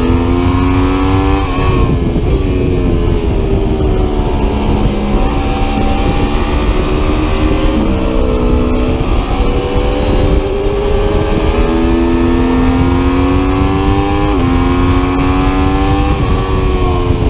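Aprilia Tuono V4 RR's V4 engine working hard on track, its pitch climbing through the revs and dropping sharply at each of several gear changes, with stretches where the revs fall away. A steady low rumble runs underneath.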